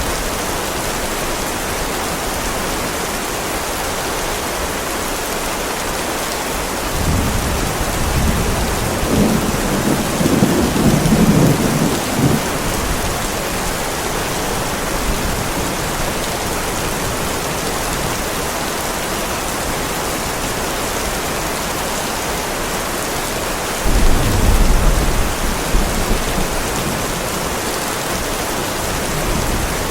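Heavy rain falling steadily on a driveway, with two low rolls of thunder. The first rumbles from about a quarter of the way in for some five seconds, and a second, shorter one comes a little past two-thirds of the way through.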